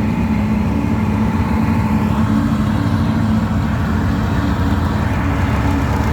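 Twin two-stroke outboard jet motors on a jon boat running steadily under way, holding an even pitch.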